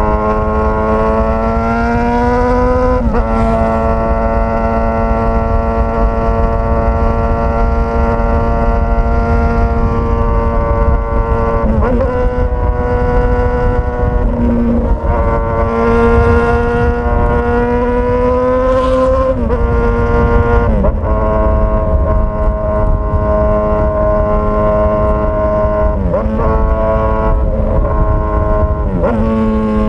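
Straight-piped Suzuki GSX-S1000 inline-four engine running under way, its pitch climbing slowly and then dropping sharply at each gear change, about six times.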